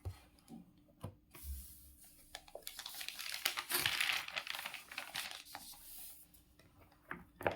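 Faint, irregular crackling rustle with scattered clicks, swelling in the middle and dying away shortly before the end.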